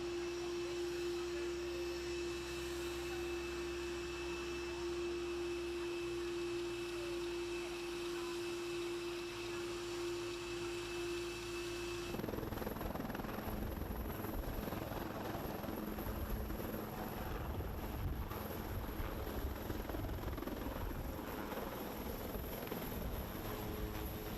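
Helicopter running: a steady whine from the turbine, then, about twelve seconds in, an abrupt change to a rougher, noisier rotor and engine sound with a low rumble.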